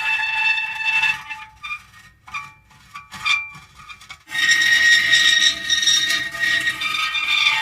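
Metal creaking: long drawn-out pitched squeals. They break off about a second in, leaving a few short creaks, and resume strongly about four seconds in.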